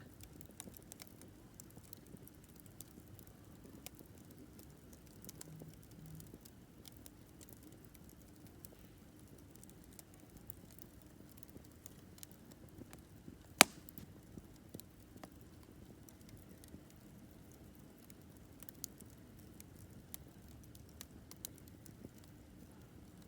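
Campfire burning quietly, crackling with scattered small snaps of wood, and one sharp, loud pop about halfway through.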